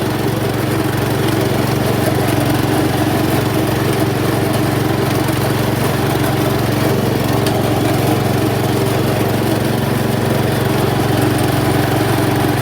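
Riding lawn tractor's engine running steadily and loud at a constant speed.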